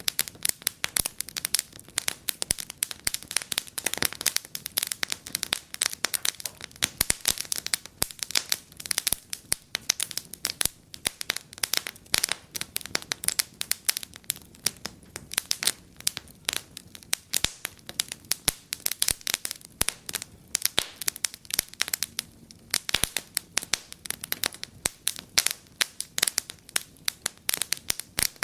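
Wood fire crackling and popping steadily, with dense irregular snaps of burning logs and no flames hissing or roaring over them.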